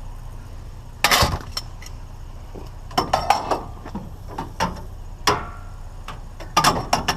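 Scrap items being handled and loaded, clanking and rattling in a string of sharp knocks, loudest about a second in and bunched again near the end, over a steady low hum.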